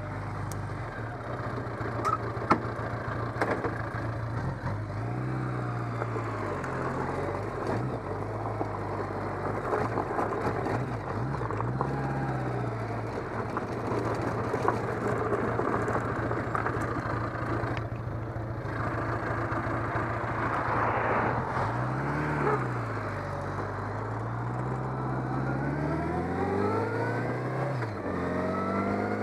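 Motor vehicle driving, engine and road noise running steadily; the engine's pitch rises and falls several times and climbs near the end as it accelerates.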